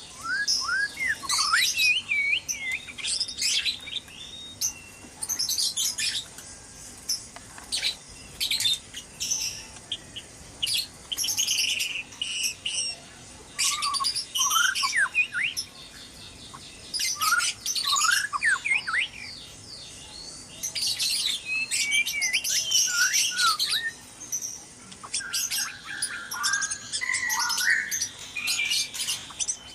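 White-rumped shamas calling and singing noisily: bursts of quick whistled notes that slide up and down, mixed with short harsh notes, with brief pauses between bursts.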